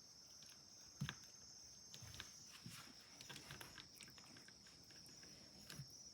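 Near silence: faint room tone with a steady high-pitched hiss, scattered soft clicks and a small thump about a second in.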